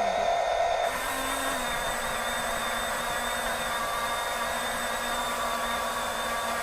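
A reversing beep ends about a second in, then the small electric gear motors of a radio-controlled Huina construction model whir steadily.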